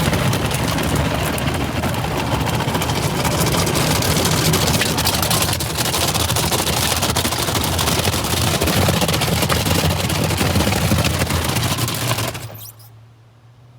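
Automatic car wash spraying water onto the car, a loud steady hiss and drumming heard from inside the cabin, which cuts off suddenly near the end. It leaves only the car's low idle hum.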